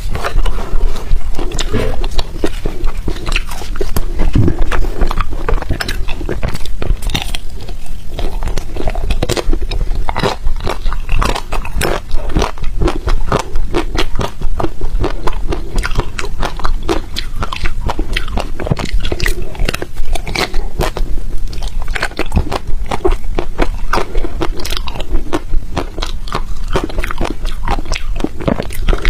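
Close-miked biting and chewing of crunchy ice, a rapid, continuous run of sharp crunches.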